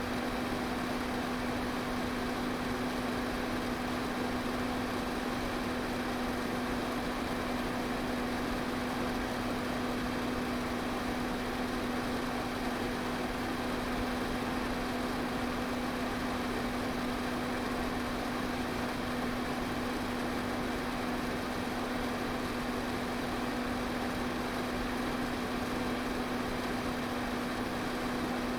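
Electric pedestal fan running steadily: an even rush of moving air over a constant low motor hum.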